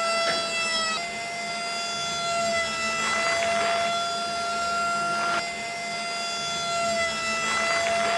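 Small electric motor of a DIY toy tractor whining at a steady pitch, dipping slightly a few times as it comes under load, with a few brief bursts of noise.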